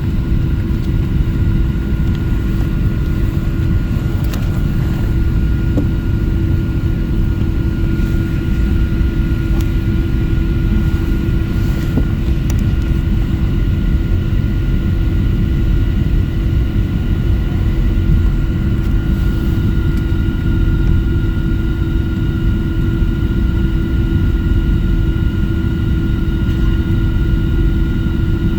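Passenger airplane taxiing, heard from inside the cabin: a steady engine drone over a deep rumble, with a low hum and a higher whine that hold steady.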